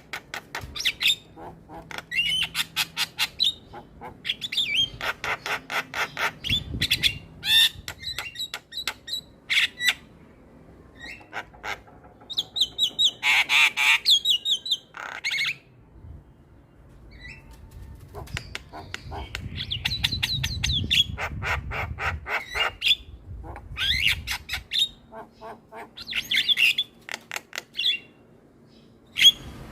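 Javan mynas chattering and squawking in rapid trains of harsh clicking notes broken by short pauses, with one longer harsh call about halfway through.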